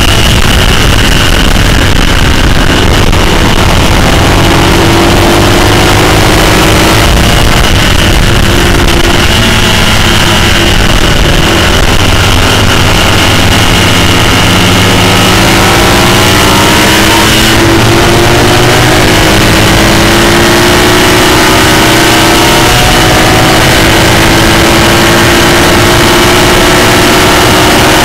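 Classic racing sidecar outfit's engine at full throttle, heard up close and very loud, its pitch climbing in long sweeps through each gear and dropping back at upshifts several times, over a constant rush of noise.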